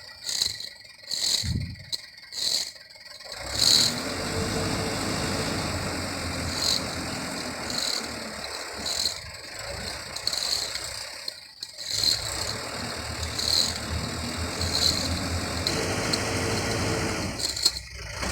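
Dump truck's engine running, uneven with drops and surges for the first few seconds and then steady.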